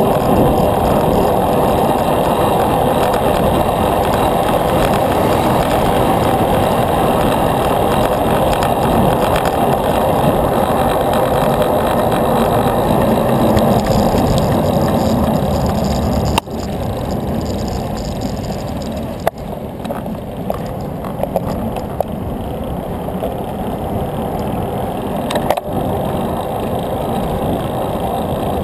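Steady wind and tyre-on-road rolling noise from a bicycle ride, the rush dropping a little about halfway through, with a few sharp clicks near the end.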